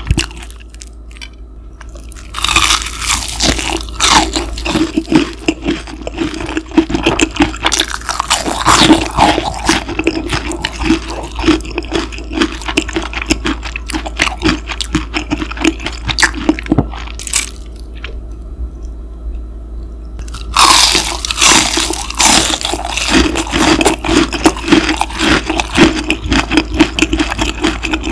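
Close-up crunchy chewing of deep-fried, panko-breaded pork cutlet, in loud bursts of crisp crunching with quieter pauses between. A steady low machine-like hum runs underneath, an unwanted noise that got into the recording.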